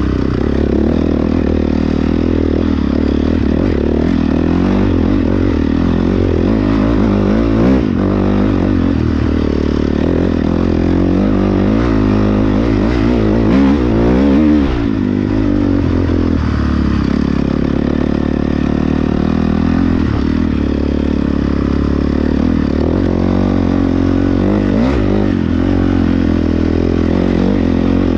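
Several off-road dirt bike engines running close by, their revs rising and falling over one another, with the loudest revving about halfway through.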